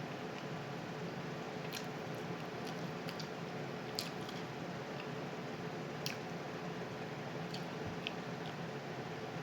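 Close-up eating mouth sounds: faint wet smacks and clicks of chewing, about one every two seconds, over a steady background hiss.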